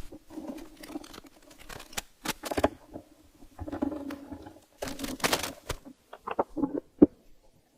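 Intermittent clicks, knocks and scraping of tools and parts being handled as the old air compressor is stripped down, with a sharp knock about seven seconds in.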